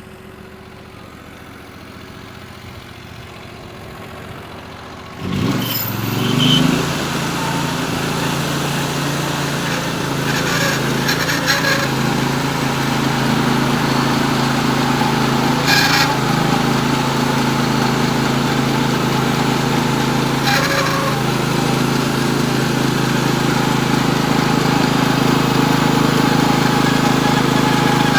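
Norwood HD36V2 portable bandsaw mill's engine idling, then sharply throttled up about five seconds in and running steadily at full speed as the band blade cuts a large poplar log.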